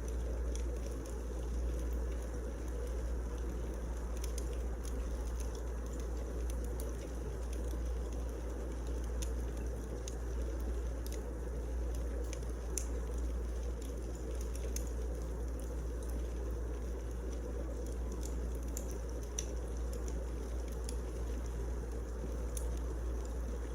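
Firewood burning in a fireplace: a steady low rumble of flames with scattered small crackles and pops.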